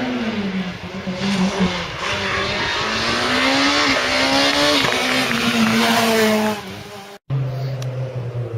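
Rally car engine at high revs as it passes, its pitch dropping, climbing and holding through gear changes. About seven seconds in it cuts off abruptly and another car's engine is heard running at a lower pitch.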